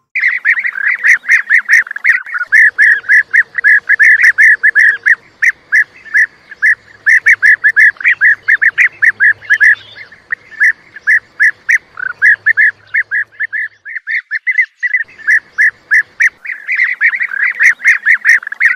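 A bird calling in a fast, steady series of loud, short notes, about five a second, with a pause of about a second near three-quarters of the way through.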